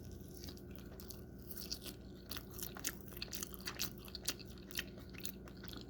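A person chewing food close to the microphone, quietly, with many small crunches and mouth clicks coming irregularly, over a faint steady hum.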